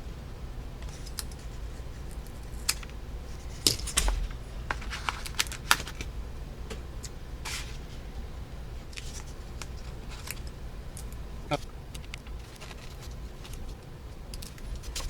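Small hard plastic parts being handled and fitted together: scattered sharp clicks and snaps with short rustles, the loudest run of clicks about four to six seconds in, over a steady low hum.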